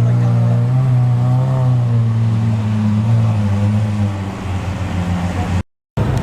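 Sports car engine running loudly at a steady pitch, easing off about four seconds in, with a brief total dropout near the end.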